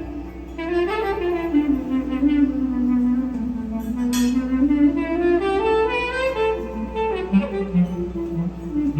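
Live music: a solo woodwind instrument plays a slow melody whose pitch slides smoothly down and back up, over a steady low hum.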